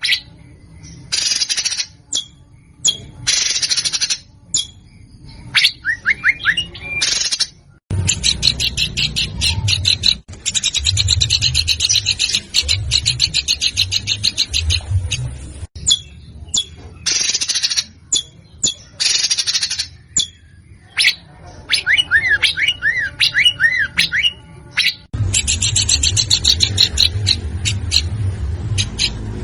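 Songbird song from a training recording: fast, harsh, rattling runs of repeated notes broken by short pauses, with a few quick rising-and-falling whistled notes about six seconds in and again past twenty seconds.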